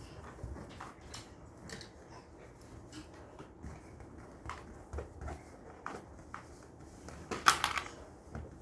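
Scattered light clicks and knocks in a small room, with one louder brief clatter near the end.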